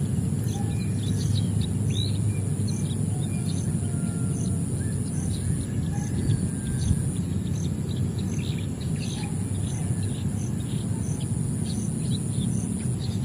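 Small birds chirping, with many short calls scattered throughout, over a high insect pulse repeating nearly twice a second and a steady low background noise.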